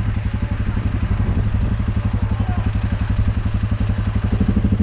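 U650 tractor's diesel engine running steadily under load, with an even, pulsing low note.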